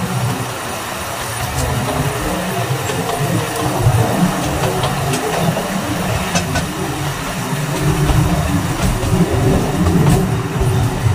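Alishan Forest Railway train running along its narrow-gauge mountain track, heard from a carriage window: a steady low rumble of wheels on rail with a few scattered sharp clicks.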